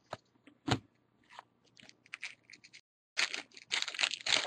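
Baseball cards and a foil pack wrapper being handled: a few light clicks and rustles, then a dense crackle of the wrapper being torn open and crinkled about three seconds in.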